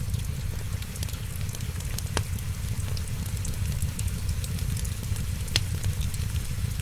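Wood fire crackling over a steady low rumble, with scattered small snaps and two sharper pops, about two seconds in and again past five seconds.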